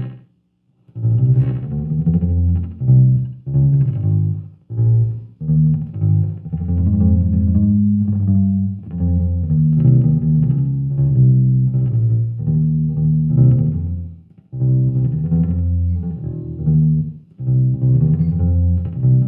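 Fender Jazz Bass played through an MXR M175 digital delay unit and a bass amp: a line of ringing notes in phrases, stopping briefly about fourteen seconds in.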